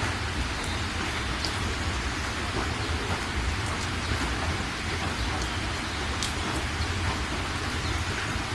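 Heavy rain falling steadily, a dense hiss with scattered sharp drop ticks over a low rumble.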